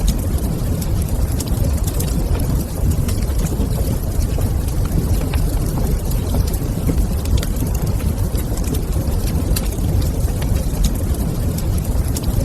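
Wood fire crackling in a fireplace, with scattered small pops and snaps over a steady low rumble.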